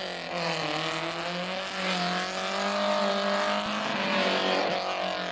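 Renault 5 rally car's four-cylinder engine revving hard, its pitch climbing and dropping again and again as the car accelerates and lifts off between slalom cones.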